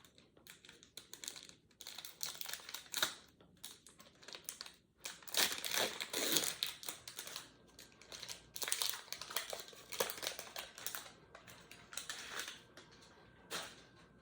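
A pack of trading cards being torn open by hand, its wrapper crinkling and rustling, with the cards handled in a run of irregular soft rustles and clicks.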